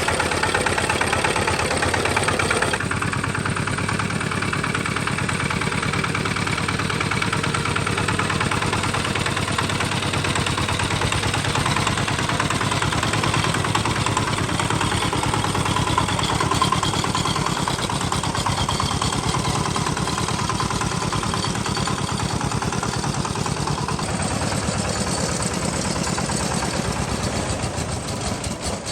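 Tractor engine running steadily at idle, its tone shifting slightly about three seconds in, then fading out at the very end.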